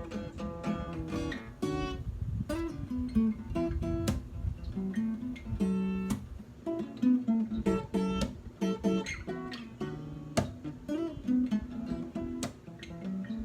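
Acoustic guitar playing an instrumental passage of strummed and plucked chords.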